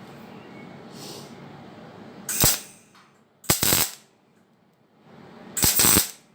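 MIG welder striking three short tack or stitch welds, each a brief crackling burst that opens with a sharp click. The bursts come about a second to two seconds apart.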